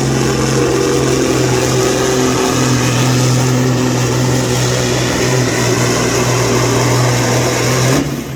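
Semi truck's diesel engine running hard at steady high revs under load, pulling the sled, then cutting back abruptly about eight seconds in.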